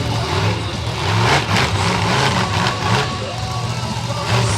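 Monster truck engine revving, its pitch climbing and dropping several times as the throttle is worked.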